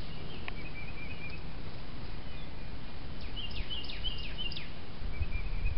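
Birds chirping: a few short high notes early on, then a quick series of descending chirps a little past halfway, over a steady low background hum.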